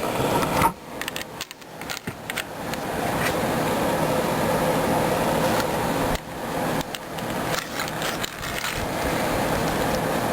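Beans inside a snake-gourd rain stick cascading in a steady rattling rush as the gourd is tilted and handled, swelling over the first few seconds, breaking off about six seconds in, then starting again.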